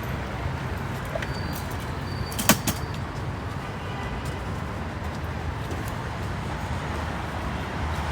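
Outdoor street background: a steady low rumble of traffic, with one sharp clack about two and a half seconds in.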